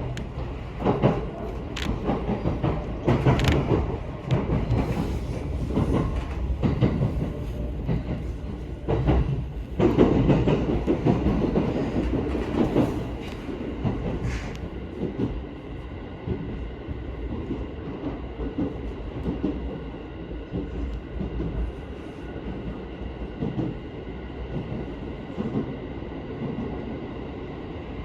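Cabin noise inside a JR Central 313 series electric train car: a low rumble with irregular knocks and clatter in the first half, settling about halfway through into a steady hum with faint steady tones.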